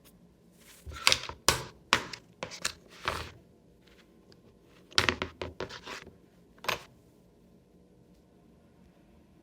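Sharp knocks, clicks and scrapes of hard parts being handled. They come in two clusters, one about a second in and one about five seconds in, and then it goes quiet.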